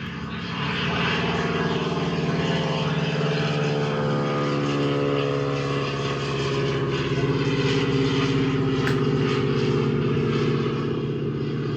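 Propeller aircraft's piston engine running, rising in level over the first second and then holding steady with small shifts in pitch.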